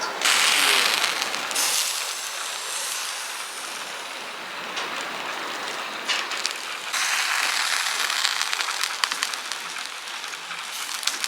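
Meat sizzling on a hot grill, a steady crackling hiss. It swells louder twice, briefly near the start and again for a few seconds later on.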